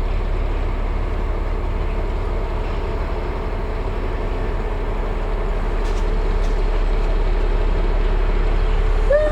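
Class 218 diesel-hydraulic locomotive's engine running with a steady low rumble that grows slightly louder in the second half. Near the end a brief falling tone cuts in.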